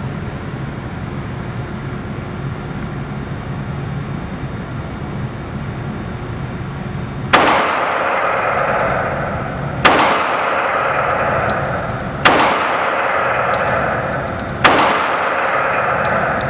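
Four shots from a CZ 97B .45 ACP pistol firing Trajtech 185-grain semi-wadcutter match loads, spaced about two and a half seconds apart, each trailing off in a long echo. The shots begin about seven seconds in, after a steady background hum.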